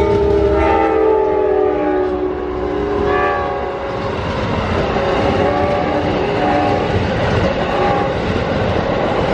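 Amtrak passenger train's horn chord sounding as the train passes at speed, its pitch sliding down over the first few seconds, then the steady rumble of the train rolling past.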